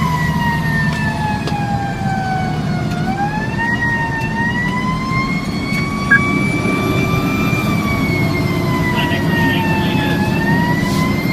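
Fire engine siren wailing, its pitch sliding slowly down over about three seconds, then back up, and dipping and rising again near the end, over the steady low rumble of the truck's engine.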